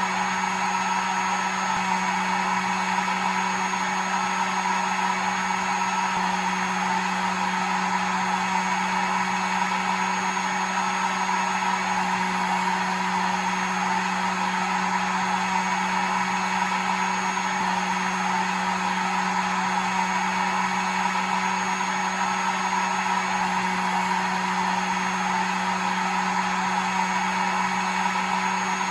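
Hair dryer running steadily: an even rush of air over a constant motor hum, with no change in speed.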